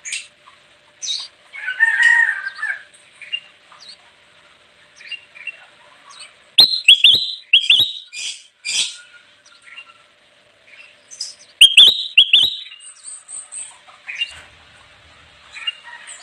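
Kutilang emas bulbul singing: a short warbled phrase about two seconds in, then two loud clusters of sharp, rapid chirps about midway and about three-quarters through, with scattered short calls between.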